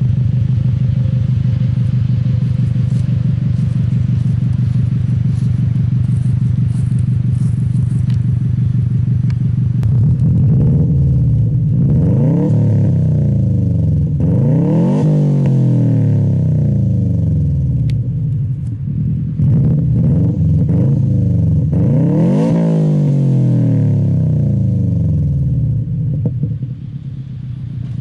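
A 2002 Subaru WRX's 2-liter turbocharged boxer engine running through an Invidia N1 race exhaust with no resonator, idling with a boxer rumble. From about ten seconds in it is revved repeatedly, each rev climbing in pitch and falling back to idle, the biggest three spread over the second half.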